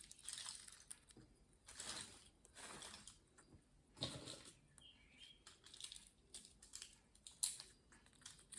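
Faint, irregular crunching, scraping and clicking of a green-cheeked conure's beak working at a cracked walnut, prying the nut meat out of the shell.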